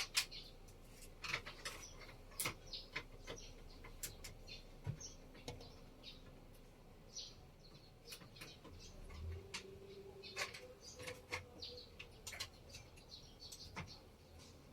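Faint, scattered short bird chirps mixed with light clicks and taps at irregular intervals.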